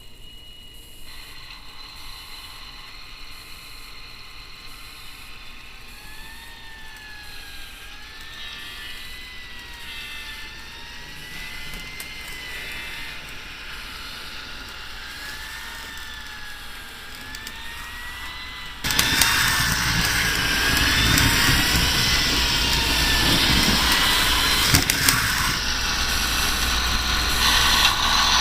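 Digitrax sound decoder in a model Mack CF truck, playing a modified RDC (rail diesel car) engine sound file through its small speaker. A faint whine wavers up and down in pitch, then about 19 seconds in the diesel engine sound starts suddenly and runs much louder.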